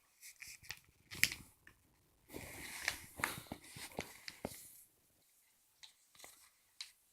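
A sheet of paper being folded by hand: faint crinkles and sharp crackles, with a stretch of rubbing about two seconds in as a crease is pressed down.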